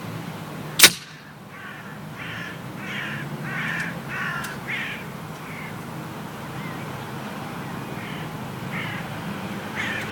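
A single shot from a Weihrauch HW97K spring-piston air rifle: one sharp crack about a second in. It is followed by a bird calling in a quick run of about six harsh calls, with a few fainter calls near the end.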